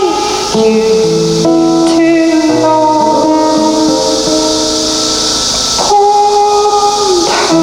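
Live band music: an instrumental passage of held notes shifting chord every second or so over a steady high hiss, without vocals.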